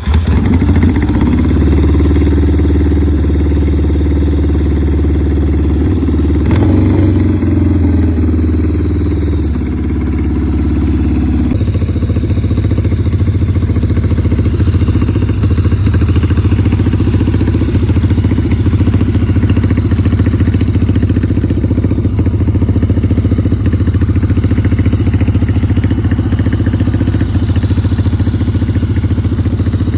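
Engine of a 1964 Triumph Bonneville T120R chopper, a 649 cc parallel twin, running steadily. The note shifts about 11 seconds in, and there is a single click a few seconds before that.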